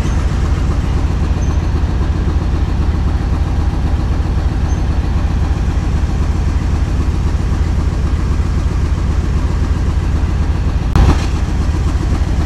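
Diesel locomotive engine running with a steady low rumble as it hauls a coach past on the rails, the wheels rattling over the track. Near the end there is a single loud metallic clank.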